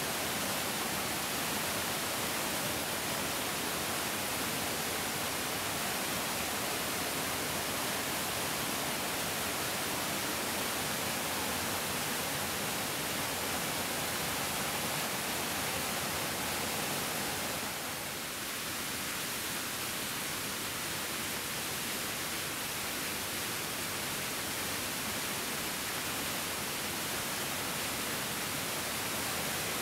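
Larger mountain stream flowing over rocks: a steady, dense rushing of water, easing slightly about 18 seconds in.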